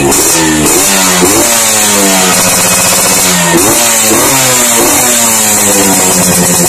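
Yamaha RX-King 135 cc two-stroke single blipped repeatedly through an aftermarket underbelly expansion-chamber exhaust, the pitch sweeping up and back down several times.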